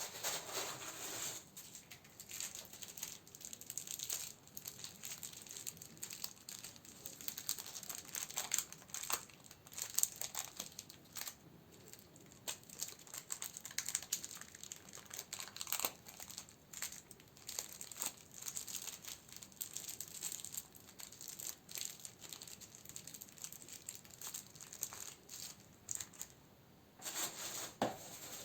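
Plastic and paper candle packaging crinkling and rustling as it is handled, in irregular crackly bursts with a short lull near the end.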